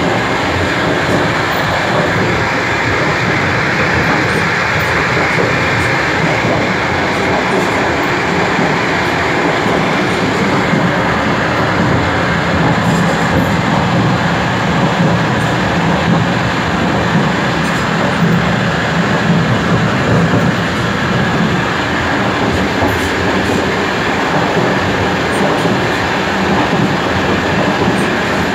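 DR1A diesel multiple unit running along the track: a loud, steady rumble of wheels on rails and running gear.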